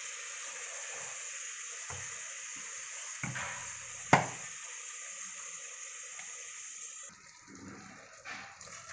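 Marinated chicken sizzling in hot ghee in a pressure cooker as the pieces are layered in: a steady hiss that stops abruptly about seven seconds in. There is a sharp knock against the cooker a little past four seconds in and a softer one just before.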